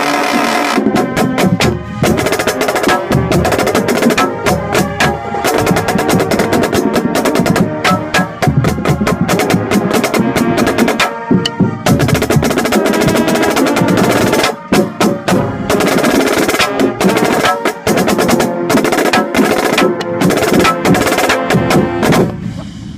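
Marching snare drum played close to the microphone in fast, dense stick patterns, over the rest of the marching band playing; the music drops away just before the end.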